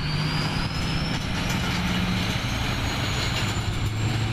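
Turbocharged Ford F250 V8 engine running at idle just after startup, a steady low rumble, with a thin high whine slowly rising in pitch.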